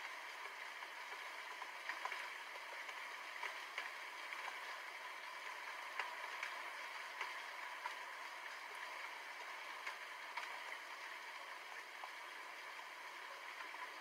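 Steady rain falling: an even hiss with scattered sharp ticks of drops hitting a surface.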